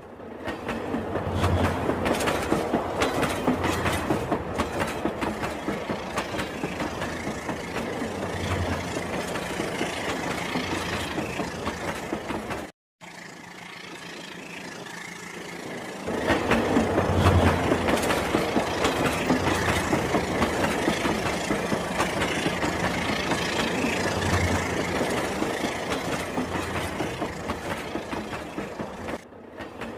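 Rail King battery-powered toy train running on its track, a steady rattle with a low bump about every second and a half. The sound cuts out briefly a little before halfway, stays quieter for a few seconds, then comes back louder.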